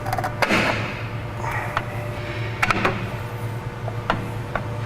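Scattered metallic clicks and light knocks of steel brake shoes and return springs being worked into place on a drum-brake backing plate, about six in all, irregularly spaced, over a steady low hum.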